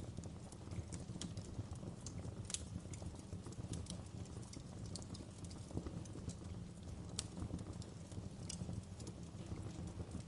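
Wood fire crackling in a fireplace: irregular sharp snaps and pops, a few louder than the rest, over a low steady rumble of the flames.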